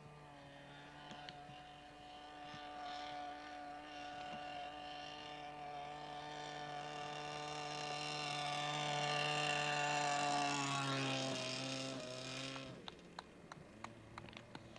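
Giant-scale radio-controlled model airplane engine running steadily in flight. It grows louder as the plane approaches, drops in pitch as it passes about eleven seconds in, then ends abruptly. A few faint clicks follow near the end.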